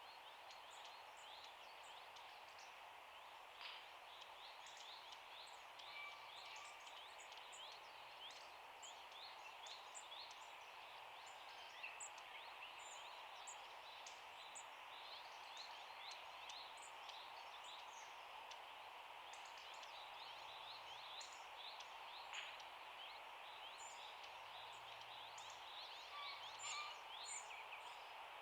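Many small birds chirping faintly in quick, high notes, over a steady outdoor hiss.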